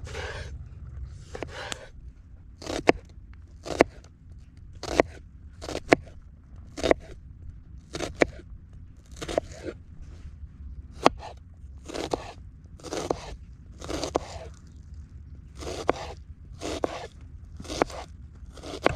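Repeated crunching scrapes, about one a second, each beginning with a sharp click, over a low steady rumble.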